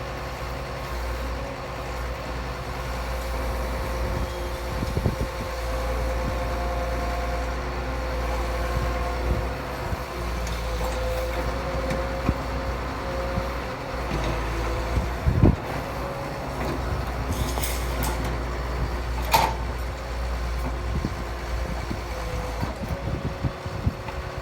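Heavy diesel construction machinery, such as excavators and dump trucks, running steadily with a deep engine drone. A few short knocks come through, the sharpest about three quarters of the way through.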